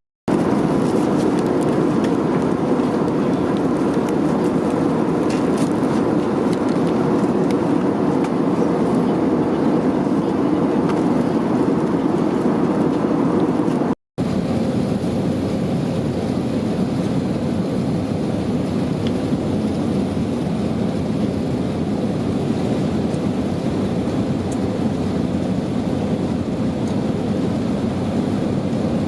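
Steady engine and air noise inside the cabin of an Airbus A320neo airliner, a loud even rumble with no change in pitch. It cuts out for an instant twice, at the very start and about halfway.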